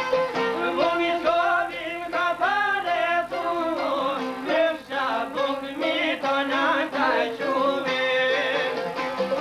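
Albanian folk music: an ornamented melody with a wavering vibrato, sung over instrumental accompaniment that holds a steady note underneath.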